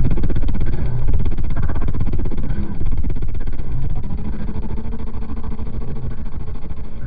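Car audio system playing music at very high volume, dominated by heavy subwoofer bass.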